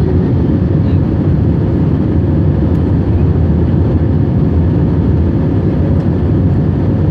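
Steady jet engine and airflow noise of an Airbus A321-231, a loud even rumble with a faint steady hum over it, heard from inside the cabin.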